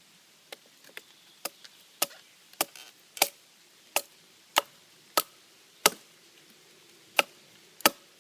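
Batoning: a wooden baton striking the spine of a thin-bladed bushcraft knife about a dozen times to split a piece of wet wood down the middle. The sharp knocks come every half second or so, growing louder after the first few, with a pause near the end before the last two.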